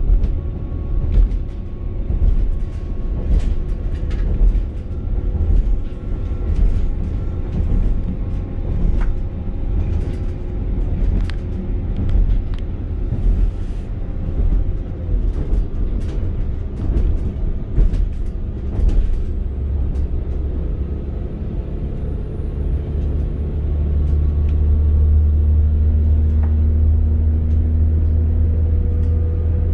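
Inside a Northern Class 195 diesel multiple unit on the move: a steady low rumble from the wheels and underfloor running gear, with scattered clicks and rattles. About two-thirds of the way through, a deeper steady drone swells in and holds.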